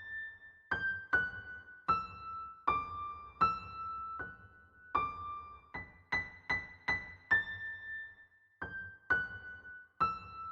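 Background music: a high, piano-like keyboard plays a slow single-note melody, each note struck and left to ring, in stepwise, mostly falling phrases.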